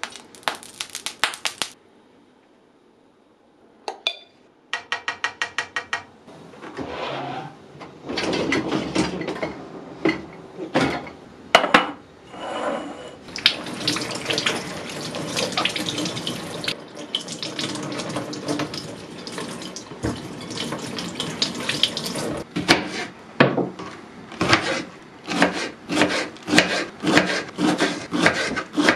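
Kitchen work sounds: water running at a sink with dishes and utensils clattering and knocking. It opens with a few sharp clicks and a quick run of about ten even clicks, and the running water starts about eight seconds in.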